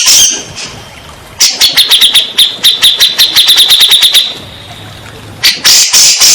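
Grey-cheeked bulbul (cucak jenggot) calling loudly in fast runs of sharp, high, repeated notes. A run of nearly three seconds starts about a second and a half in, and a shorter burst comes near the end.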